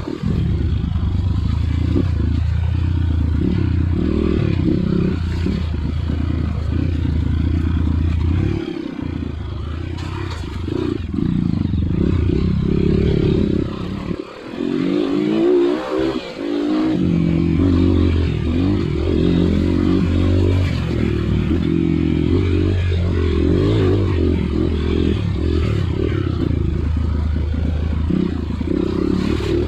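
Trail dirt bike engine running under varying throttle over rough ground. A little after the middle, the deep engine note drops away for a few seconds and a higher, wavering note takes over before the steady running returns.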